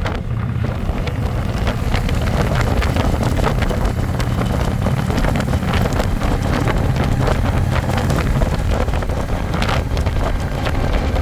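Wind rushing over the microphone on a moving Harley-Davidson Electra Glide, with the bike's V-twin engine running steadily underneath.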